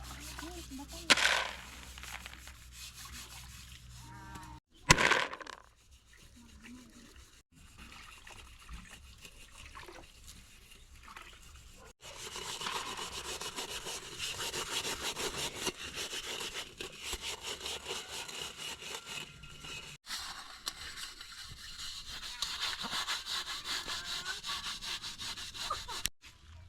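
Fast, rhythmic scraping or rubbing strokes that set in about halfway through and keep going, after two loud short sounds early on.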